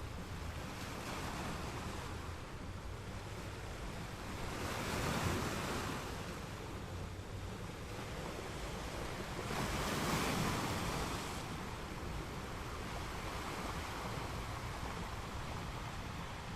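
Ocean surf washing onto a beach: a steady rush of water, with two louder waves breaking about five and ten seconds in.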